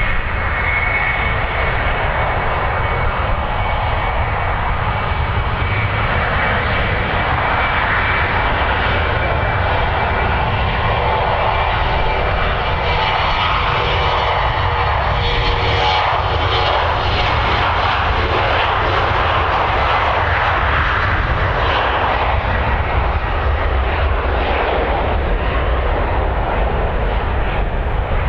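Embraer E190 jet's twin turbofan engines running at takeoff power: a loud, steady roar with a high whine that rises briefly at the start and then holds.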